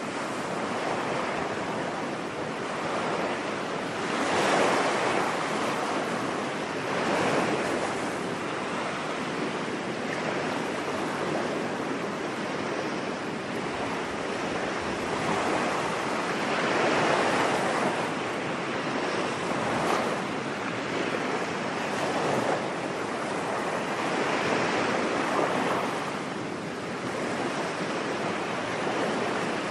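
Ocean waves breaking on a beach: a steady wash of surf that swells louder every few seconds as each wave comes in.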